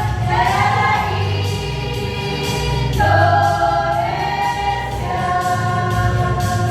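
A choir singing a march, holding long notes that change every second or two, over a steady musical accompaniment.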